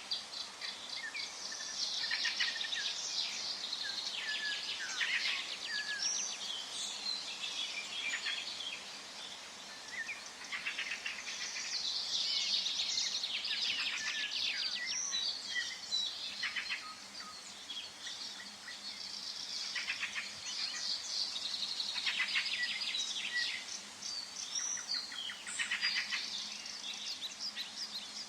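Several songbirds singing and calling at once in a forest, overlapping rapid trills and high chirps, over a faint steady hiss.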